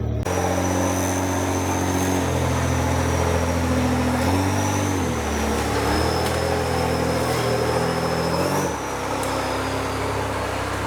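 An off-road 4x4's engine running under load while crawling over rocks, its revs dipping and picking up again a couple of times, with a thin high whine from the drivetrain over it.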